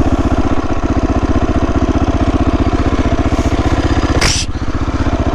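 Motorcycle engine running steadily at a low, even idle with a rapid pulse, plus a short burst of noise about four seconds in.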